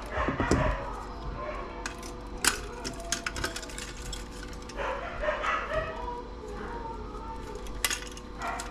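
Pet dogs barking and whining on and off, complaining at being left alone, with a couple of sharp clicks.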